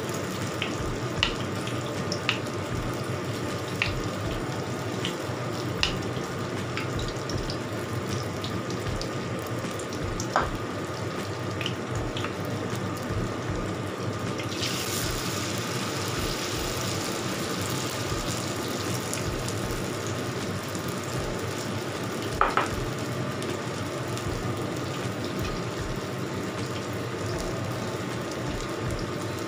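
Cabbage-and-carrot batter fritters deep-frying in a wok of hot oil: a steady sizzling and bubbling. It grows brighter and louder about halfway through as more batter goes into the oil. A few light clicks sound in between.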